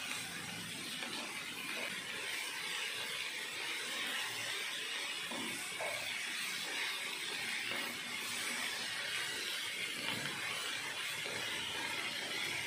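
Chopped okra sizzling steadily in hot oil in a pan while being sautéed, with soft scrapes of a wooden spatula stirring it.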